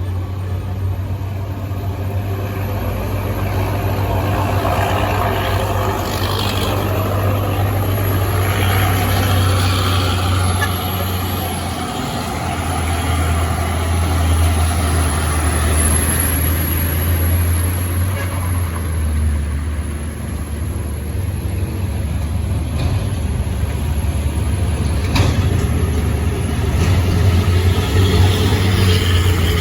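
Long trucks' diesel engines running with a steady low drone, with road and traffic noise over it.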